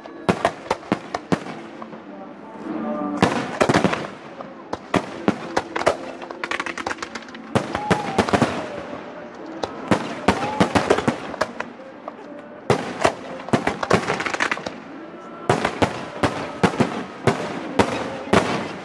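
Aerial fireworks bursting overhead in rapid volleys of sharp bangs and crackles, with spectators' voices underneath.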